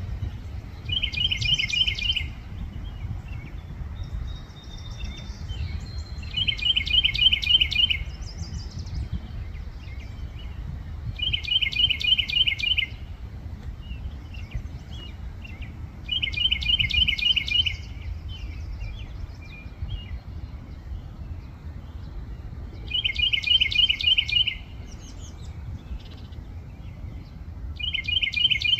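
A tiny songbird singing loudly: six song phrases, each a fast run of about seven identical bright notes, repeated roughly every five seconds.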